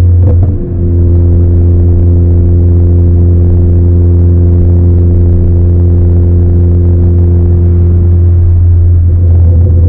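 2018 Ford Focus ST's turbocharged 2.0-litre four-cylinder running through its aftermarket Roush exhaust, a loud low drone held at a steady pitch while cruising. The level dips briefly about half a second in, then the drone holds steady, with no pops or crackles.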